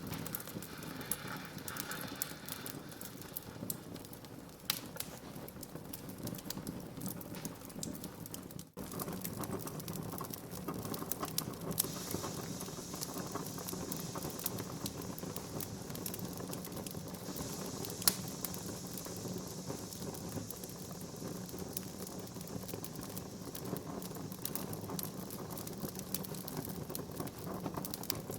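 Wood fire crackling in a fireplace: a dense run of small snaps and pops over a low steady rush. The sound cuts out for an instant about nine seconds in, and one sharper pop stands out around eighteen seconds.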